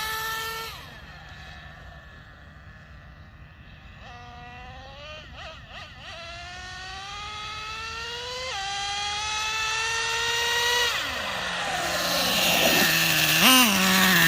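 Traxxas Nitro Revo 3.3 RC monster truck's two-stroke nitro engine running under throttle: it fades away, then comes back with its pitch climbing steadily, drops sharply in pitch once and climbs again, then settles lower with a short rev near the end.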